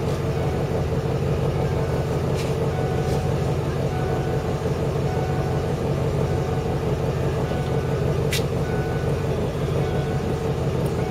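Lincoln Mark VIII's 4.6-litre DOHC V8 idling steadily on a cold start after sitting unrun through the winter, still warming up and not yet revved. A few short clicks sound over it.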